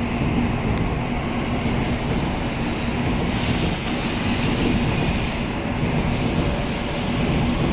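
N700-series Shinkansen train moving past the platform: a steady rushing rumble of wheels and running gear with a steady low hum underneath.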